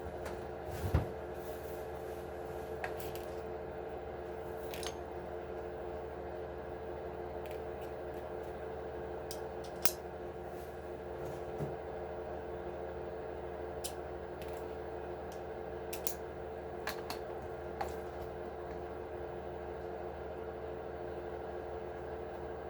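Scattered small clicks and taps of parts and tools being handled while an Axial SMT10 RC truck is taken apart, over a steady background hum.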